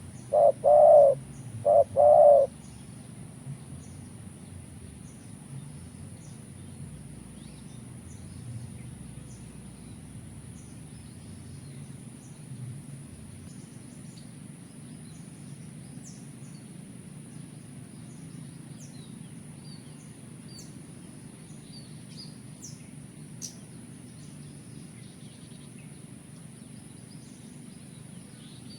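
Spotted dove cooing, three loud low notes in the first two seconds or so. After that, only faint high chirps of small birds over a steady thin high-pitched whine.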